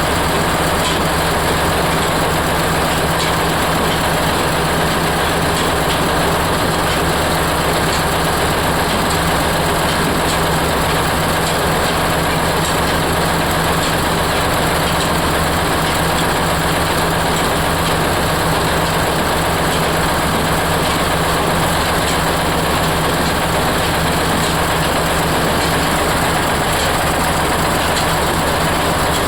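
Oil expeller, a screw press for oilseed, running steadily with a constant mechanical hum and dense grinding noise.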